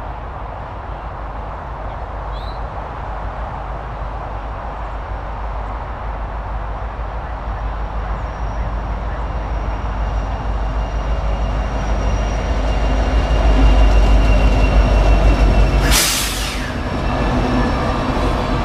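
Freight train's diesel locomotives approaching and passing close, a deep engine rumble growing steadily louder, with a brief loud rush about sixteen seconds in as the lead units go by; empty coal hopper cars then roll past.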